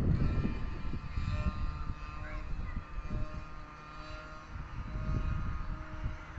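A distant engine drone with several steady tones, over a low, gusty rumble.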